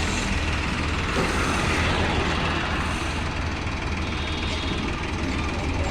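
Tractor diesel engine idling, a steady low rumble.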